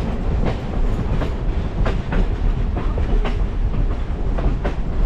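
Railroad cars rolling on the rails behind Shay geared steam locomotive No. 5, heard from aboard: a steady low rumble with irregular clacks and knocks, about two a second.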